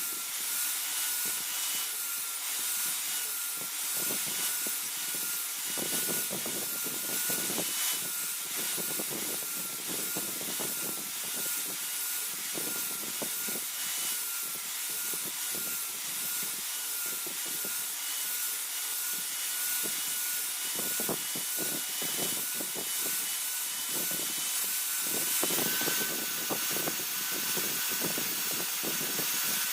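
Power grinder grinding a leaf-spring steel dao blade: a steady motor whine under a continuous rasping hiss, with uneven rougher passes as the blade is worked against the wheel.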